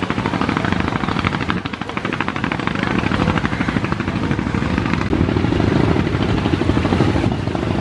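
A river launch's large diesel engine running with a rapid, even chugging beat, growing a little louder about five seconds in.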